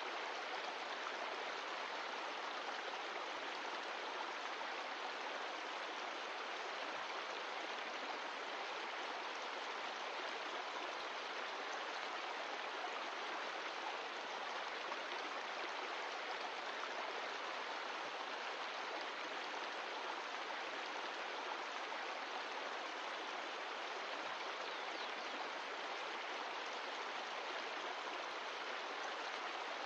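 Mountain stream of glacial meltwater flowing, a steady, even rush of water with no change in level.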